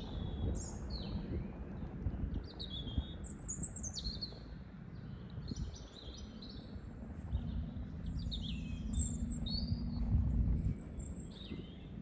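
Small songbirds chirping and twittering in many short high calls and quick trills, over a steady low outdoor rumble.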